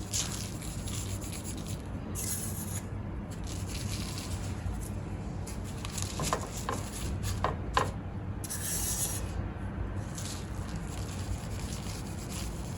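Donuts being rubbed and turned in powdered cinnamon sugar, a dry gritty rubbing with two brief hissing sprinkles of sugar and a few light taps, over a steady low hum.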